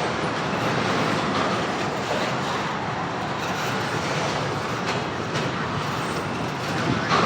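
CSX freight train rolling past: a steady rumble of wheels on the rails, with a sharper clack about seven seconds in.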